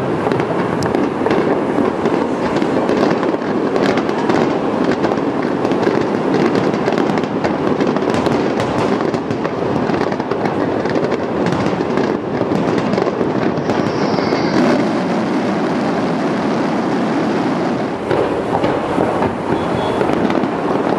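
Fireworks display: many aerial shells bursting in quick succession, a dense, continuous barrage of bangs and crackles.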